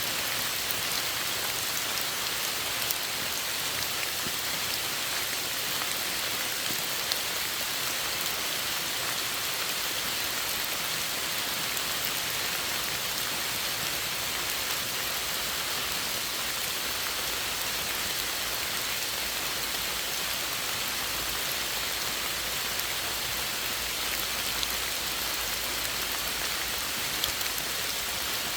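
Steady rain falling, an even hiss with a few single drops ticking out above it now and then.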